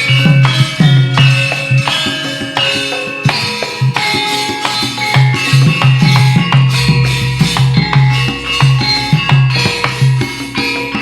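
Instrumental passage from a gamelan-backed campursari band in a slow dangdut rhythm. Hand drums keep a steady beat about twice a second under sustained melodic tones.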